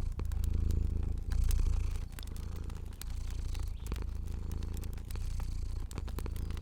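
A cat purring in a steady low rumble that swells and eases, with a wood fire crackling over it in scattered sharp pops.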